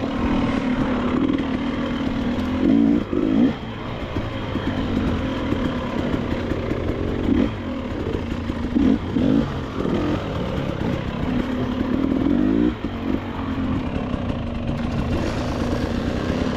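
KTM 300 XC-W two-stroke dirt bike engine running on a trail ride, with several short revs as the throttle is opened and closed.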